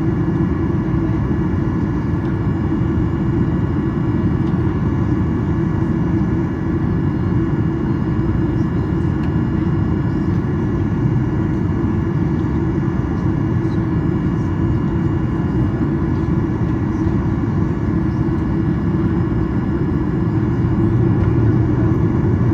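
Boeing 737-800's CFM56-7B jet engines idling, heard inside the cabin: a steady low rumble with a faint constant whine over it.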